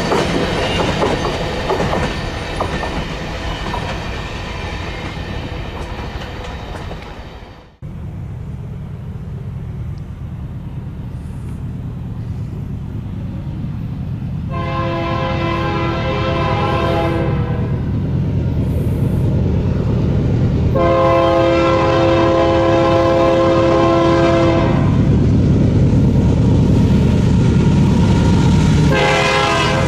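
Coal train cars rolling past with the clickety-clack of wheels on rail, cut off suddenly about eight seconds in. Then the rumble of an approaching Union Pacific diesel locomotive grows, and its multi-note air horn sounds two long blasts, with a third starting near the end.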